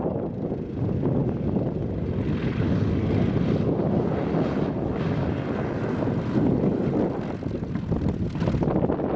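Propeller-driven warbird aircraft engine running, a steady rumbling drone that grows brighter for a few seconds in the middle.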